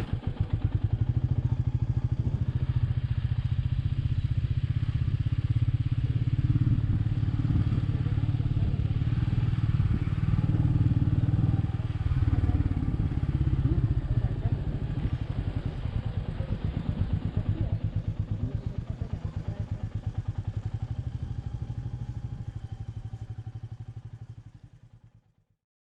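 Royal Enfield Meteor 350's single-cylinder engine running at low revs, a steady deep pulsing. It weakens in the last seconds and dies away to silence near the end.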